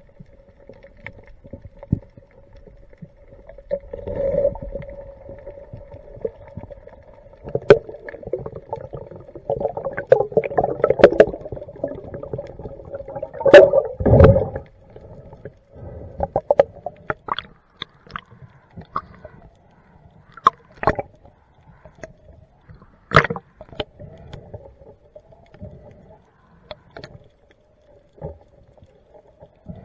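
Muffled underwater sound from a diver's camera: sloshing and bubbling water with scattered sharp knocks and clicks, over a steady hum. The loudest surges come about 13 to 14 seconds in.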